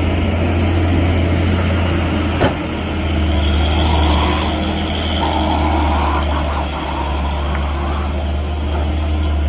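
Heavy vehicle engine running steadily with a deep low hum, and one sharp crack about two and a half seconds in.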